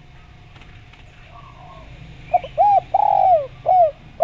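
Spotted dove (derkuku) cooing: after about two seconds of faint background birdsong, a loud phrase of short arched coos with one longer, falling note in the middle.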